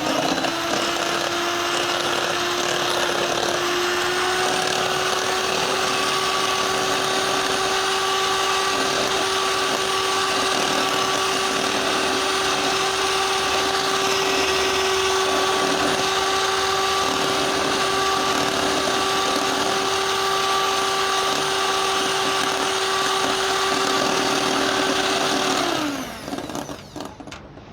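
Electric mixer running steadily at medium speed, its beaters whipping chilled cream. The motor whine rises slightly a few seconds in, then falls away as the mixer is switched off near the end.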